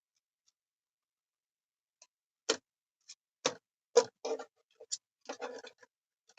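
Irregular light clicks and short taps from tarot cards being handled, starting about two seconds in, some coming in quick little clusters.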